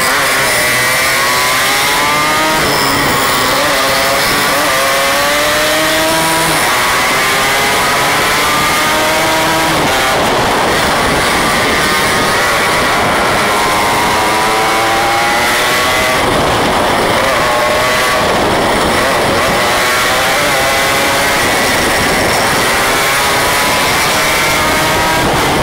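Yamaha RX King 135 cc two-stroke single-cylinder motorcycle engine under way, its pitch rising again and again as it revs up and falls back between gears, with wind noise over it.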